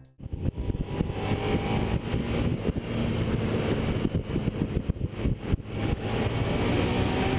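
Suzuki SV650 V-twin motorcycle engine running at speed, with steady wind noise over the microphone.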